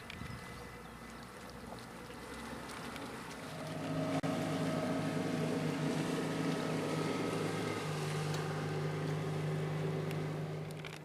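Outboard motor on a Yamaha UF-28 fishing boat running under way on a test run, with water noise. It grows louder over the first few seconds, then runs at a steady pitch.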